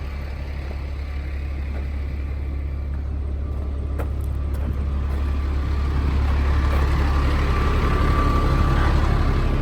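Diesel engine of a Freightliner FL80 bucket truck idling steadily, growing gradually louder, with a faint steady whine and a single click about four seconds in.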